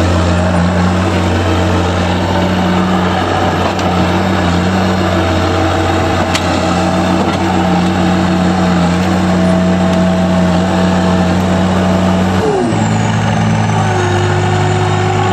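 Heavy vehicle engine running steadily, its pitch dropping suddenly about twelve seconds in as the engine speed is cut back.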